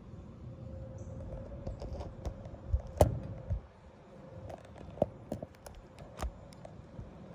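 Scattered light clicks and knocks of hard objects being handled, such as tools and sockets, with a few sharper taps about three, five and six seconds in.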